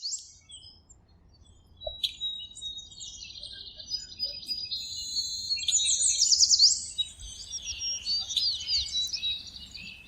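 Small birds chirping and trilling, several high calls overlapping. The calls thicken about two seconds in, with a run of quick sweeping notes around six seconds.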